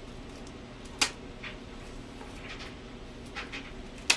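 Scissors snipping through a sun conure's flight feathers: two sharp snips about three seconds apart, with a few fainter clicks between, over a low steady room hum.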